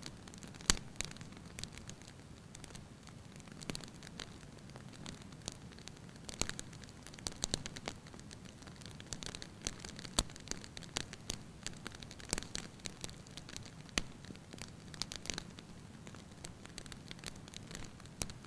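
Wood fire burning in a fireplace, crackling with irregular sharp pops over a soft steady hiss. One loud pop comes about a second in.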